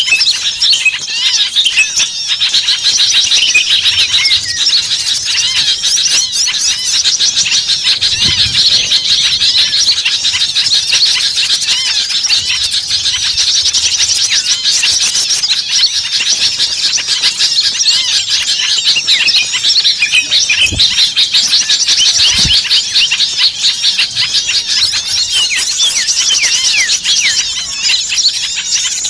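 Dense, loud chorus of many small songbirds calling at once, rapid high chirps and trills overlapping without a break: a mixed small-bird lure recording of agitated, noisy birds.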